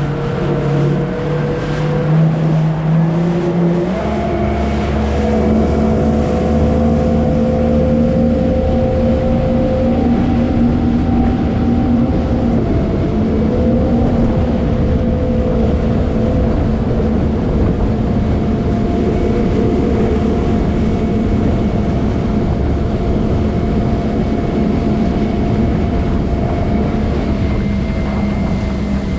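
Jet ski engine running under way, stepping up in pitch about four seconds in as it speeds up, then holding a fairly steady high speed, with rushing wind and water noise.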